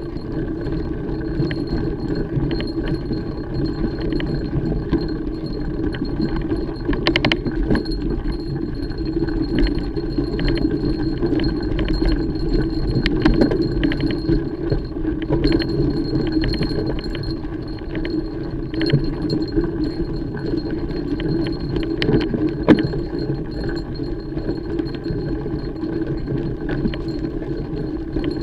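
Mountain bike being ridden over a trail: a steady rumble of tyres and wind with frequent metallic rattles and clicks from the chain and frame over rough ground.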